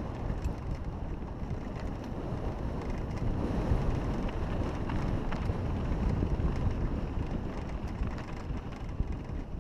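Wind buffeting the microphone over a low rumble from a moving motocross bike, swelling louder for a few seconds in the middle.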